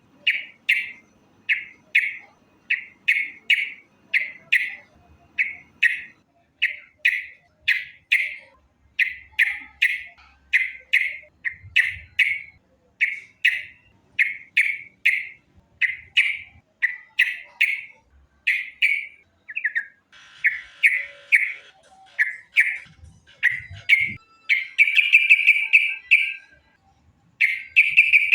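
Yellow-vented bulbul (trucukan) calling: short, loud chirps repeated about twice a second, breaking into a longer rapid chatter about 25 seconds in.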